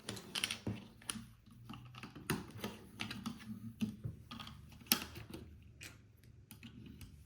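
Plastic LEGO pieces clicking and rattling as they are handled and pressed together, with irregular sharp clicks; the loudest comes about five seconds in.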